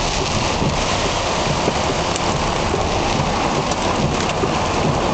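Heavy rain falling on a car's roof and windshield, heard from inside the cabin as a dense, steady hiss.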